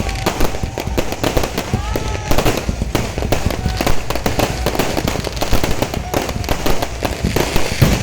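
Fireworks going off: a dense, continuous run of bangs and crackles, with voices in the background.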